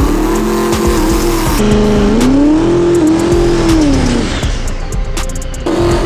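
Race vehicle engines revving, their pitch rising, holding and falling again in long sweeps, with music mixed in; the sound changes abruptly a couple of times.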